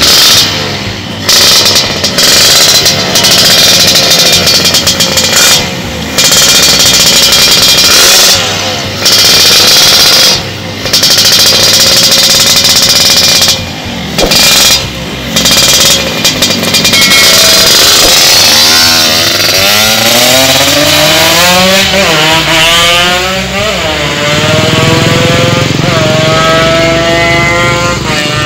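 Yamaha RX-King single-cylinder two-stroke engine, its porting freshly reworked, revving hard at high rpm with several sharp throttle cuts. In the second half its pitch climbs in repeated rising sweeps.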